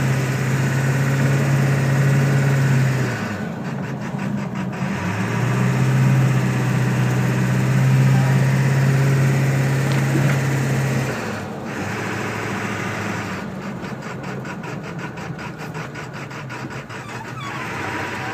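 1999 Ford F-250's 7.3-litre Power Stroke turbo-diesel V8 running with a rough idle. A steady low hum drops out twice, and an even pulsing of about five beats a second comes through briefly, then again for several seconds near the end. The owner puts the rough idle down to a burnt valve-cover wiring harness sending signals to the wrong injectors, possibly with a bad injector or two.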